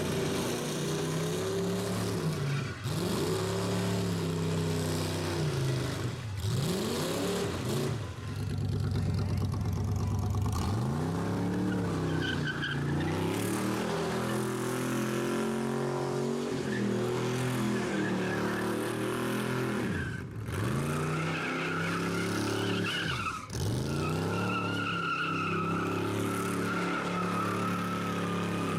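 Hot rod engine revving hard through a burnout, its pitch climbing and dropping again and again with short lifts off the throttle. From about halfway on, the spinning rear tyres squeal over it.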